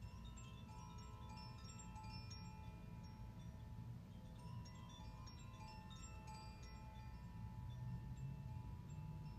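Chimes being played softly: many clear high tones struck one after another in a loose cascade, each ringing on and overlapping the next, over a faint low rumble.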